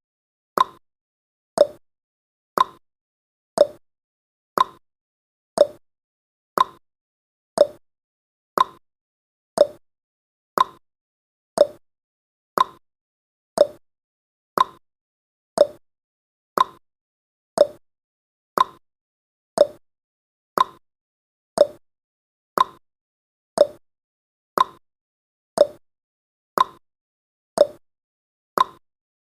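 Countdown timer's ticking sound effect: a short, sharp tick once a second, keeping an even beat.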